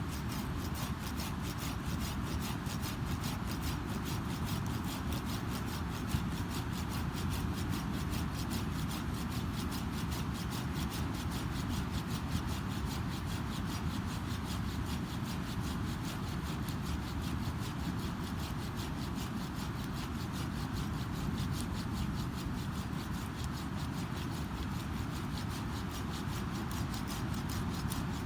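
Campfire burning, with the steady rush of ocean surf behind it. The overall sound holds an even level, with a fine, fast ticking in the high range.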